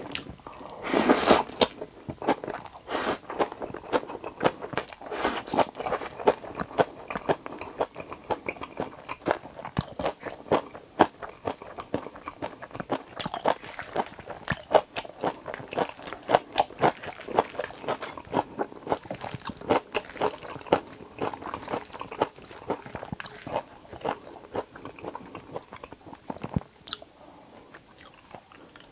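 Close-miked chewing and wet mouth sounds of someone eating Chapagetti noodles with fried eggs, a dense, irregular run of clicks and smacks, with a louder half-second burst about a second in.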